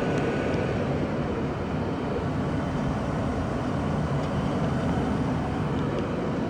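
1994 Tempstar SP80 gas furnace running steadily, its burners lit, with a few faint ticks over the steady noise.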